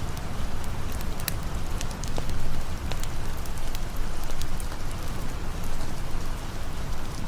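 Steady rain mixed with a crackling campfire, with scattered sharp pops and ticks over a constant low wash of noise.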